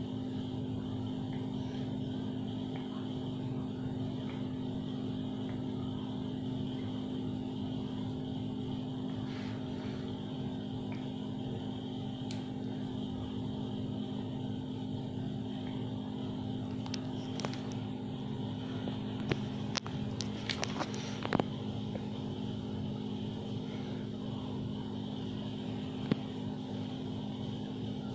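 A steady mechanical hum made of several held tones, with a quick run of sharp clicks about two-thirds of the way through and one more click near the end.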